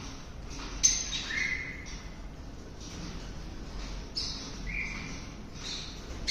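Small cage birds calling: a few short, sharp chirps and brief clear whistled notes, the first cluster about a second in and another around four to five seconds in.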